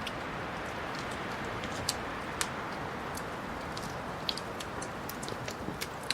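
Wood fire crackling in a fireplace: a steady soft rush with irregular sharp pops and snaps scattered throughout.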